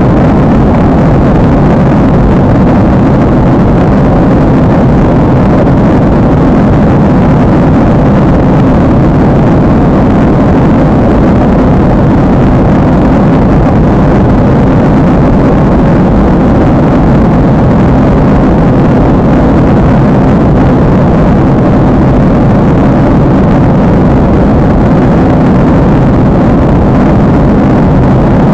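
Loud, steady jet engine and airflow noise heard from inside an airliner cabin in flight.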